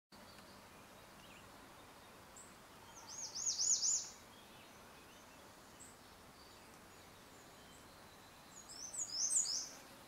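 A songbird singing two short high-pitched phrases about five seconds apart, the first a quick run of four repeated slurred notes, over a steady faint outdoor hiss.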